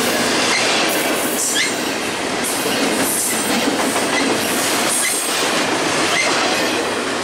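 Double-stack container freight cars rolling past at speed: steady loud noise of steel wheels on rail, with brief high squeals from the wheels now and then.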